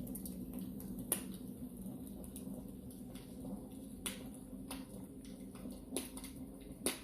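Wood fire crackling, with about five sharp, irregular pops over a steady low hum.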